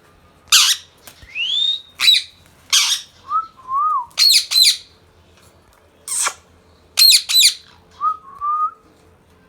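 Indian ringneck parakeet calling: loud harsh screeches and quick runs of two or three repeated notes, mixed with a few short whistles, one rising and two low and wavering.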